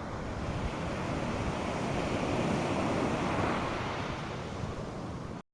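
North Sea surf washing onto a sandy beach: a steady rush of breaking waves that swells to its loudest about halfway through and eases off, then cuts off abruptly near the end.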